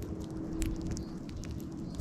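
Birds pecking at scattered seed on a lawn close to the microphone: an irregular scatter of small sharp ticks, over a faint steady hum.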